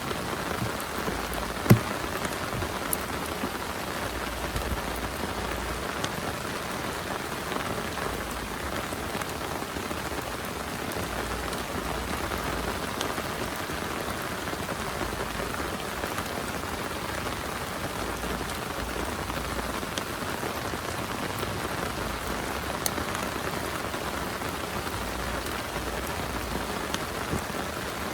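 Heavy rain falling steadily, a dense even patter with scattered sharper drop hits; one louder tap about two seconds in.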